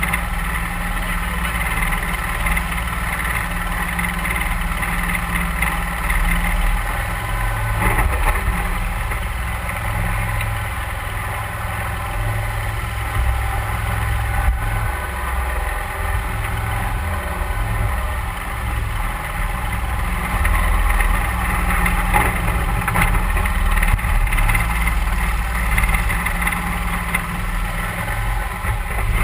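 Mudbuddy 31 hp HyperDrive surface-drive mud motor running steadily as it pushes a duck boat, with a couple of thumps about eight and twenty-two seconds in.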